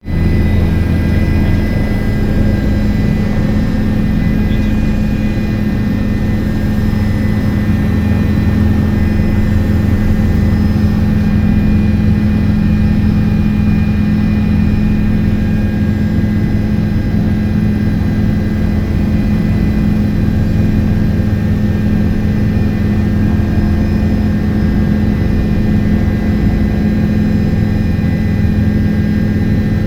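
Helicopter's engine and rotor running, a loud, steady drone with several constant tones and no change in pitch.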